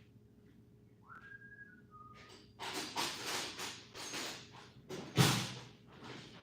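A brief two-note whistle, held then stepping down, followed by a few seconds of irregular clattering and rummaging as tools or parts are handled, with one loud knock about five seconds in.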